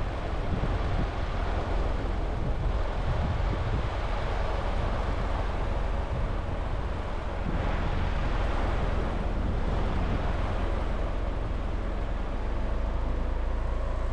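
Motor vehicle in motion: steady engine rumble mixed with road and wind noise, swelling a little about eight seconds in.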